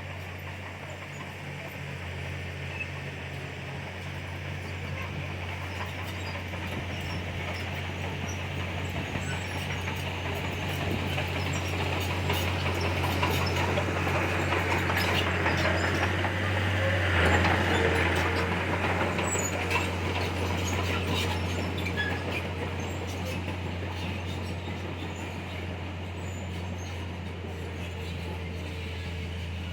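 Komatsu bulldozer's diesel engine running under load, with its steel tracks clanking and rattling as it pushes soil. It grows louder to a peak a little past the middle, then eases off.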